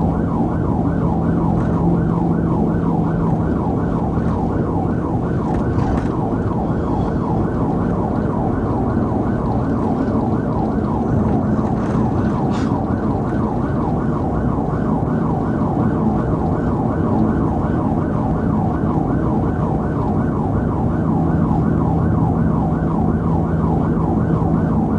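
Police car siren on a fast yelp, a rising-and-falling wail repeating about three times a second without a break, over a steady low hum of engine and road noise.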